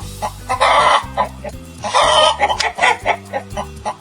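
Hen clucking: a longer, harsh call followed by a few short clucks, the pattern repeating about every two seconds, over a backing of low steady music notes.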